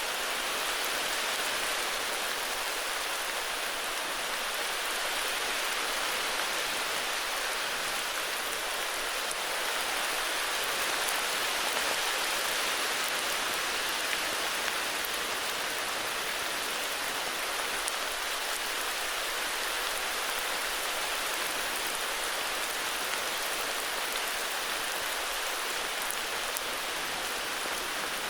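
Steady heavy rain falling, an even hiss with scattered drops landing.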